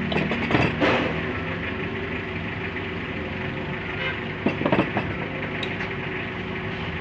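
An engine idling steadily, with a few light knocks and clicks near the start and again around four and a half to five seconds in.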